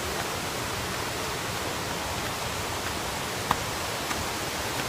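Steady rushing roar of a waterfall. A sharp click comes about three and a half seconds in, with a fainter one just after.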